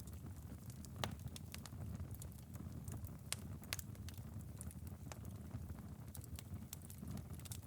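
Wood fire burning down to a glowing ember bed, with a soft low rumble and scattered sharp crackles and pops, the loudest about a second in.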